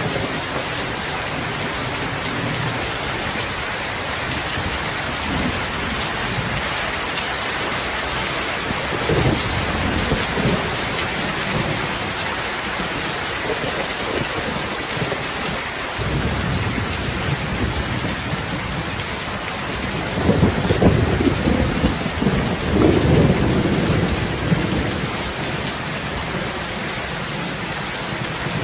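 Steady heavy rain with thunder rolling in low rumbles, one about a third of the way in and a louder, longer one about two-thirds through.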